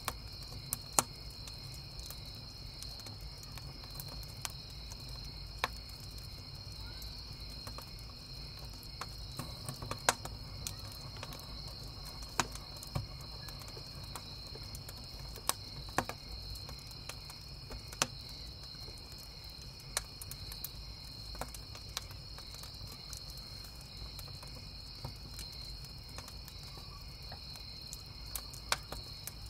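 Crickets chirping steadily in a continuous high trill, with scattered sharp crackles and pops from a burning wood campfire every second or two.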